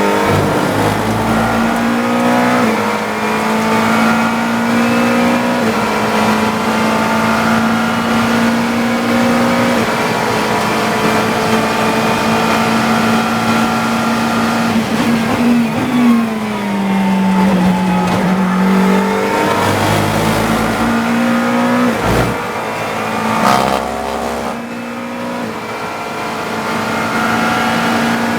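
GT3 race car engine heard from inside the cockpit, running hard with its pitch stepping through gear changes. About halfway through the pitch falls as the car slows and drops gears, then climbs again. Two sharp knocks come about three-quarters of the way in.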